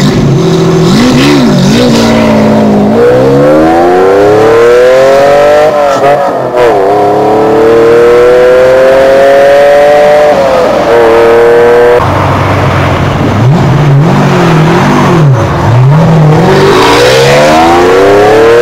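Ferrari Testarossa's flat-12 engine through a Larini aftermarket exhaust, loud, revving: quick throttle blips, and long pulls where the pitch climbs steadily for a few seconds and then falls back sharply, as at gear changes.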